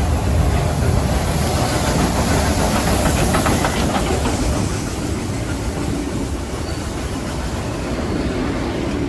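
A train running along the tracks, with a run of wheel clicks over rail joints a few seconds in; the noise eases a little about halfway through.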